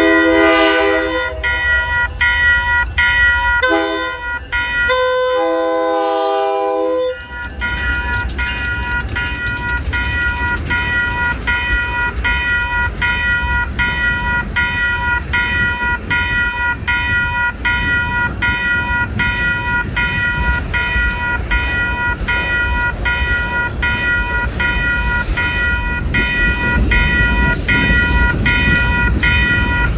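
Freight locomotive air horn sounding the end of a grade-crossing signal: a long blast ending about a second in, a short blast, then a long blast ending about seven seconds in. A crossing bell rings about twice a second throughout, over the low rumble of the rolling freight cars, which grows louder near the end.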